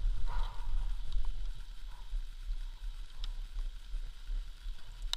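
Honda CRF dirt bike being ridden: a low, uneven rumble of the engine mixed with wind on the microphone.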